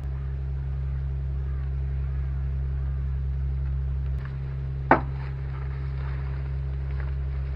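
Yamaha 2 hp outboard motor running steadily with a low, even hum. There is a single sharp knock about five seconds in.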